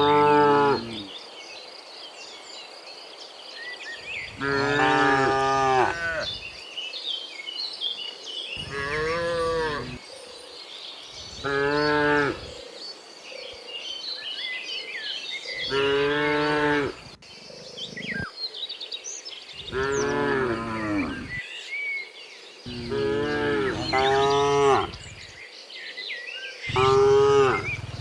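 Cattle mooing over and over, a long low moo every three to four seconds, about eight in all, with birds chirping throughout.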